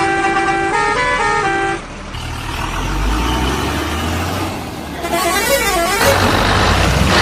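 A musical vehicle horn plays a short tune of stepped notes, then a heavy engine rumbles, with a brief warbling horn about five seconds in.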